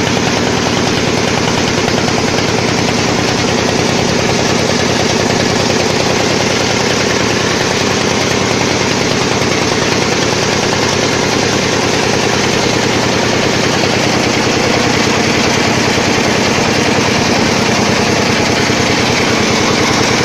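Small boat's engine running steadily at a constant speed, with a fast even pulsing beat.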